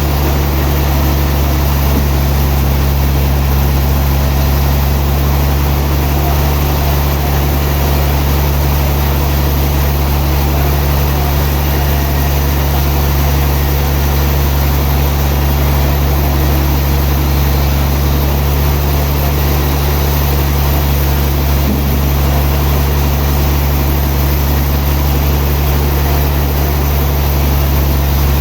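Sawmill machinery running with a loud, steady low hum that does not change.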